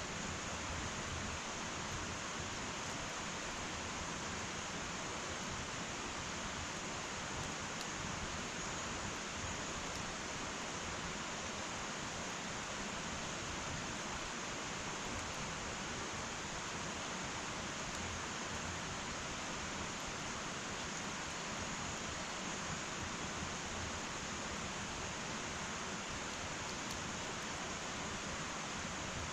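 Wood fire burning in an irori hearth: a steady, even hiss with only a few faint crackles.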